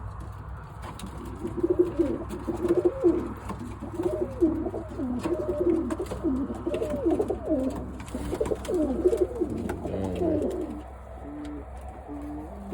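Several Birmingham roller pigeons cooing, their calls overlapping for most of the stretch and thinning to a few short separate coos near the end, over a steady low hum.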